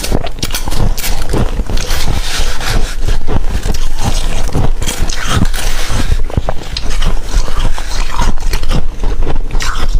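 Humidifier frost being eaten: loud, dense, irregular crunching and chewing with scraping sounds, no steady rhythm.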